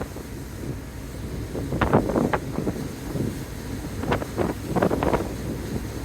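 Wind buffeting the microphone in irregular gusts aboard a moving ferry, over a steady low rumble.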